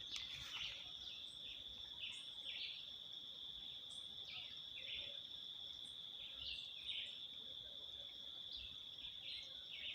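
Insects keeping up a steady, high-pitched ringing, with short bird chirps scattered over it.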